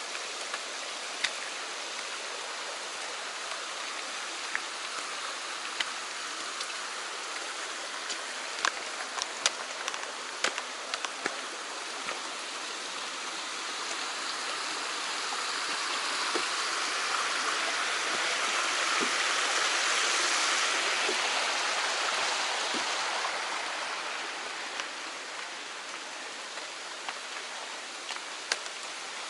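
Mountain stream rushing over rocks, swelling louder for several seconds in the middle and then falling back. Scattered sharp taps and clicks sound over the water throughout.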